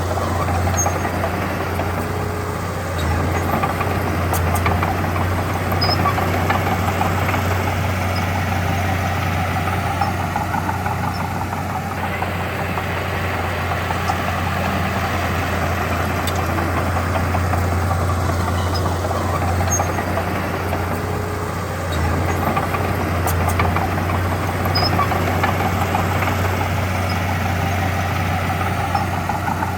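Diesel engine of heavy earthmoving machinery running steadily, with a deep hum underneath. It picks up briefly about three seconds in and again past twenty seconds.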